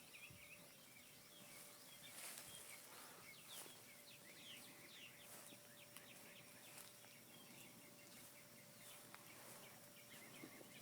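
Near silence with faint bird chirps repeating throughout, over a faint steady tone.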